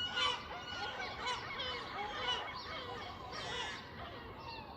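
Seagulls calling, many short arching calls overlapping one another, with other birds calling among them.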